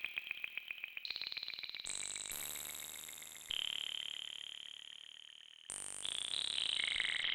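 Roland JX-8P analog polysynth playing a high, bell-like patch: a string of high notes, the first ones with a rapid flutter. Each note sounds on top of the last and slowly dies away, and near the end several notes stack up together.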